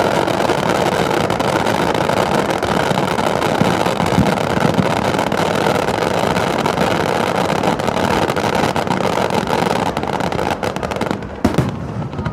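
Fireworks display: a dense, continuous crackle of many small reports, with a separate sharp bang near the end.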